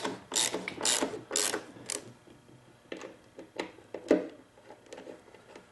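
Ratchet tool clicking in short strokes about twice a second, then a few scattered clicks and one louder click near the end, as screws are driven back in while a two-stroke leaf blower is reassembled.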